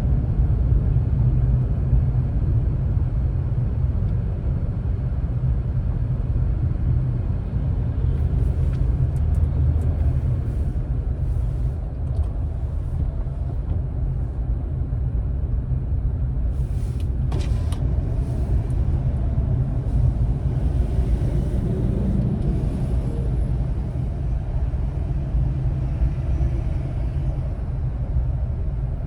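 Steady low rumble of a car driving in traffic, engine and road noise. A few brief clicks come about a third of the way in and again just past the middle.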